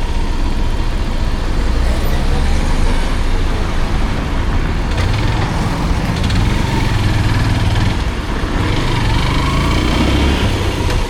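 Motorcycle engine running in road traffic, with a steady low rumble and the noise of surrounding vehicles.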